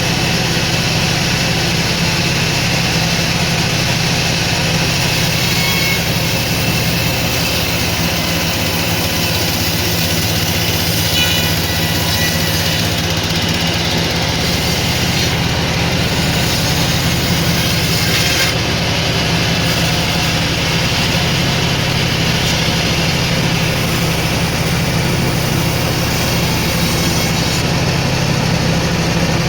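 Sawmill machinery running steadily, with a continuous low motor hum and an even mechanical noise throughout.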